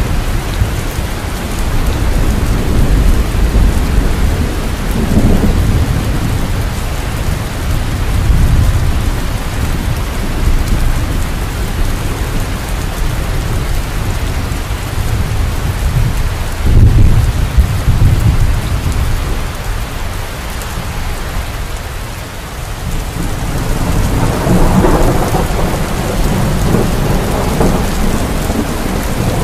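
Steady heavy rain, with thunder rumbling low and rolling in three swells: early, around the middle and near the end.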